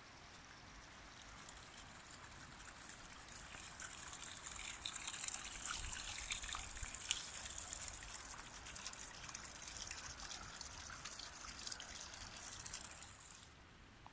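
A small stream trickling and splashing over stones. The water sound builds over the first few seconds and cuts off suddenly shortly before the end.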